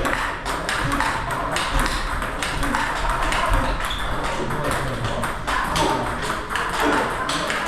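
Table tennis balls being hit in a rally: quick, irregular clicks of ball on bat and table, several a second, in a hall.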